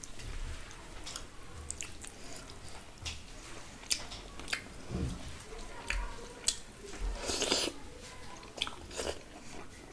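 Close-up eating sounds of a person eating rice and curry by hand: chewing with scattered sharp mouth clicks, and a louder, noisier stretch about seven seconds in as a fresh mouthful goes in.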